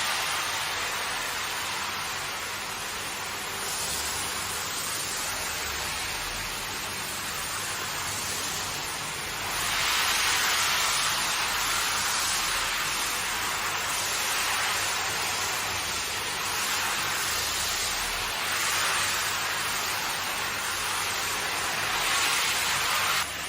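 Water jet from a hand-held car wash sprayer hitting a wet carpet: a steady hiss that swells and eases as the spray is moved, loudest from about a third of the way in.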